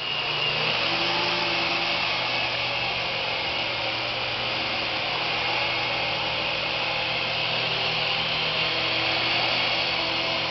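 Syma S107 toy helicopter in flight, its small electric motors and coaxial rotor blades running steadily with a continuous motor whine and blade whir.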